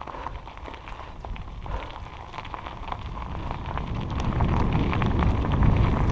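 Bicycle riding along a wooded trail: a steady crackle of many small clicks from the tyres on the trail surface, with wind rumbling on the microphone that grows louder over the second half.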